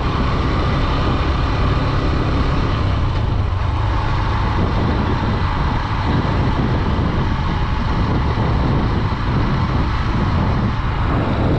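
Honda Dream 110's single-cylinder four-stroke engine running steadily while riding, under a loud, even rush of wind and road noise on the rider's microphone.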